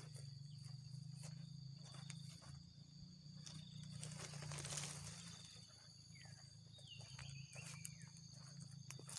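Faint swishes and snips of a sickle cutting and rustling through grass, over a steady high insect drone, with a couple of short bird calls about seven to eight seconds in.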